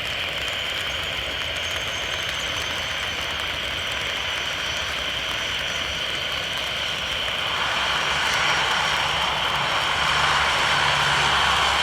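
Jet aircraft engines running as a steady rush with a thin high whine, growing louder about two-thirds of the way in.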